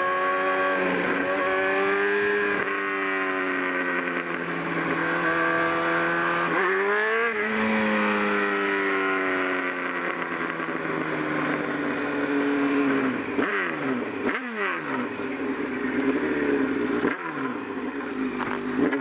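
Motorcycle engine running while riding, with wind noise on the microphone. About seven seconds in the engine note climbs sharply and drops back, and in the last third it falls away in several sweeps as the bike slows.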